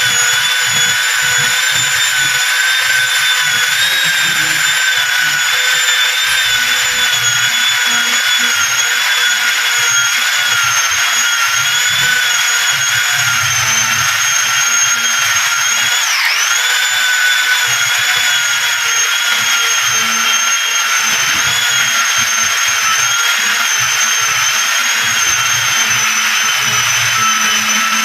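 Handheld electric power tool running at a steady high whine, its pitch dipping briefly once about halfway through as it bogs under load.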